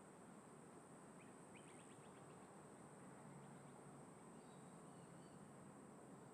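Near silence: faint outdoor ambience, a low steady rumble of wind and distant traffic. A few faint, quick bird chirps come about a second in, and short whistled bird notes follow past the middle.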